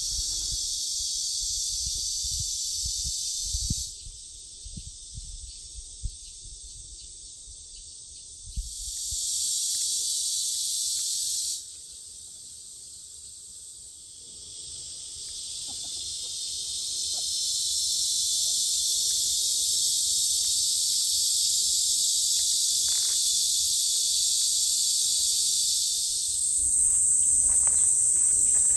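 Cicadas buzzing in a dense, steady chorus that cuts off suddenly about four seconds in, bursts back briefly around nine seconds in, then swells gradually back to full strength; near the end the buzz steps up higher in pitch.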